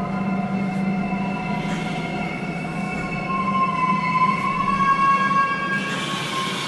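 Metro train running, with a low steady hum and several high, drawn-out whining tones; the whine near the middle pitch grows louder about halfway through, then eases.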